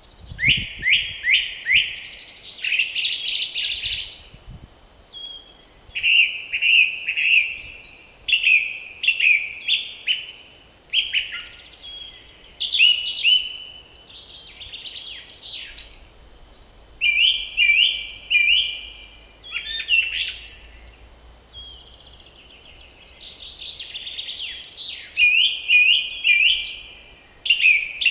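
A songbird singing in the spring woods, repeating short phrases of quick, sliding notes with pauses of a second or two between them.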